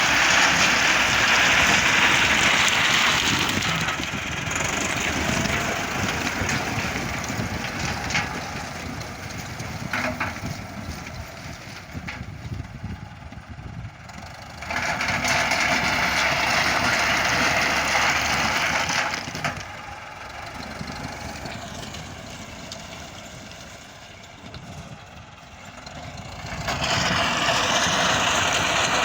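Heavy road-construction machinery engines running, with a loud hissing noise that cuts in and out: loud at the start, again in the middle for a few seconds, and once more near the end.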